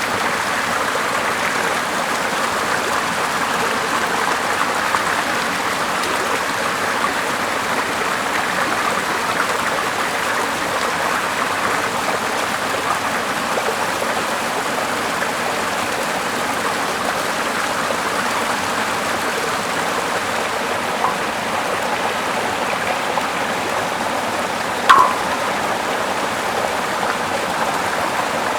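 Small river's water flowing steadily, with one short sharp pop about three seconds before the end.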